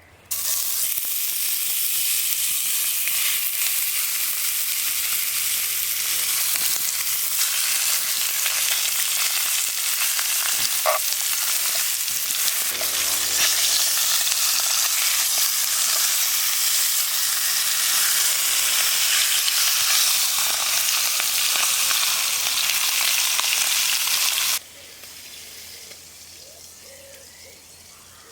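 Food frying in a hot pan over a campfire: a steady, dense sizzle that starts suddenly about half a second in and cuts off abruptly a few seconds before the end, leaving a quieter woodland background.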